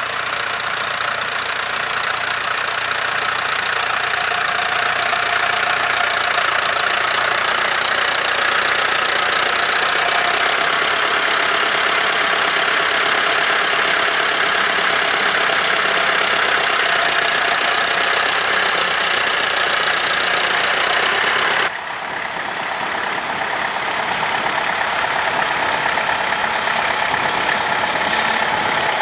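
Tractor engine running steadily. The sound drops off abruptly about three-quarters of the way through, then builds back up.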